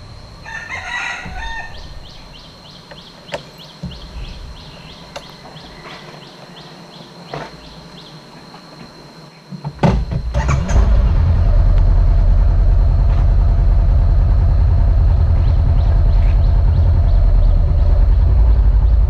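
A rooster crows once at the start over a steady high whine and a few clicks. About halfway through, a loud, steady, low rumble of a motorcycle under way takes over.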